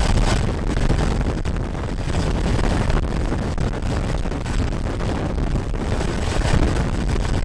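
Helicopter noise, rotor and engine, heavily mixed with wind buffeting the microphone: a loud, steady rushing rumble with a rapid flutter.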